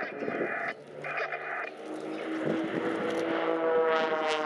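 Extra 300 aerobatic aircraft, with Lycoming six-cylinder engines and propellers, droning in flight. The engine note shifts in pitch near the end as they fly past.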